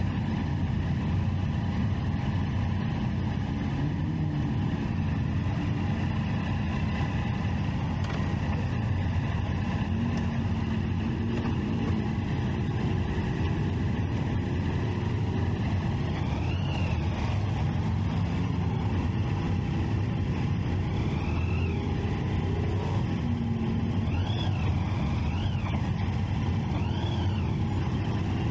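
A Triumph Street Triple 675's inline three-cylinder engine and other motorcycles running steadily during a group ride, their engine notes shifting up and down in pitch. Several short rising-and-falling whines come in the second half.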